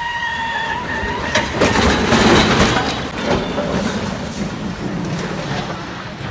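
Heavy machinery: a shrill metallic squeal that stops about a second and a half in, followed by a loud crashing rumble and a run of clattering knocks.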